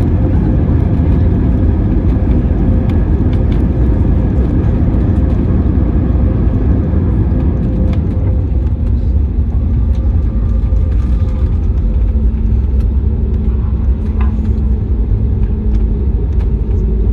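Loud, steady low rumble inside the cabin of an Airbus A320neo with CFM LEAP-1A engines, rolling on the ground after landing. A faint steady hum joins about halfway through.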